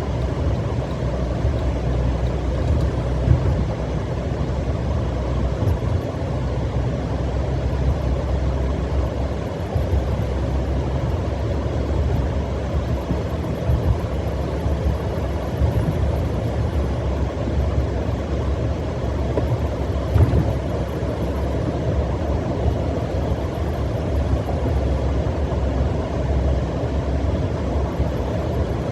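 Steady road and engine noise heard inside a car cabin at highway speed, a low rumble, with a couple of brief louder bumps.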